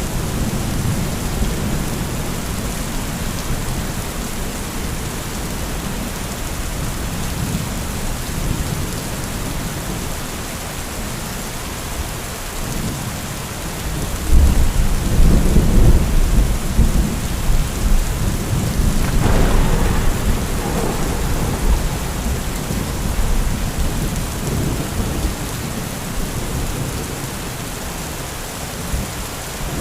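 Heavy rain falling steadily, with a roll of thunder that breaks in about halfway through. The rumble is loudest for a few seconds, has a sharper crackle in it, then fades back under the rain.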